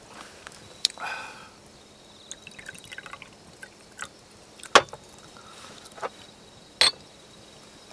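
A few sharp clicks and knocks of small objects being handled, with a brief ringing liquid sound about a second in; the loudest knocks come about two seconds apart in the second half.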